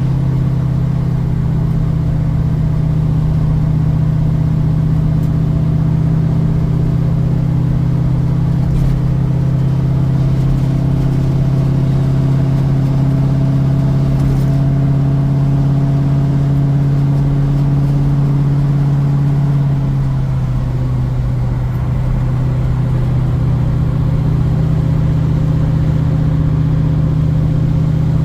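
1972 Ford Mustang Mach 1 V8, with a Crane 2040 cam and a Black Widow Venom muffler on a single 3-inch exhaust, droning steadily while the car is driven. The engine note changes about twenty seconds in.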